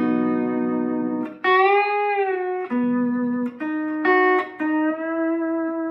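Lap steel guitar, tuned G B D G B D, playing a short turnaround intro with a steel bar. It moves through held chords and single notes, with a slide up and back down about a second and a half in, and ends on a long sustained note that slowly fades.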